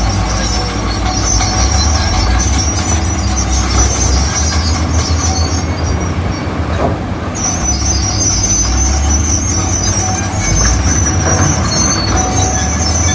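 Heavy earthmoving machine's diesel engine working under load with a steady low rumble, and high metallic squealing from its moving steel parts that stops briefly about halfway through.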